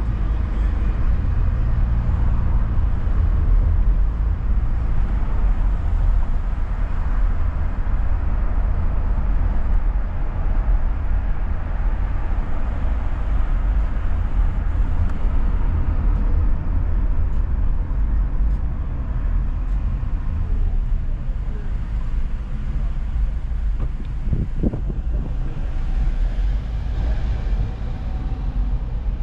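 Car driving along a road: a steady low rumble of road and engine noise, with a brief knock near the end.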